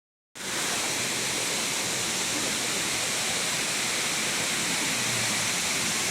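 Waterfall: a steady, even rush of falling water that starts abruptly about a third of a second in.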